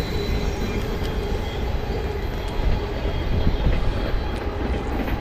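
Freight train rolling past, a steady rumble of wheels and cars on the rails with a few light clicks.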